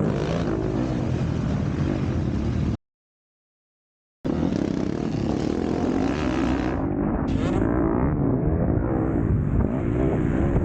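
MX2 motocross bike's engine revving up and down through the gears under race load. The sound cuts out completely for about a second and a half around three seconds in, then carries on.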